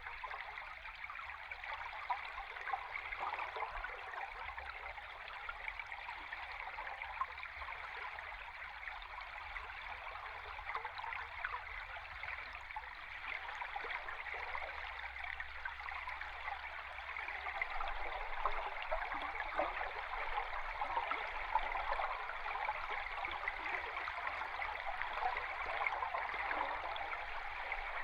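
A river stream heard underwater: a steady rush of flowing water thick with small crackles and bubbling ticks, over a faint low rumble.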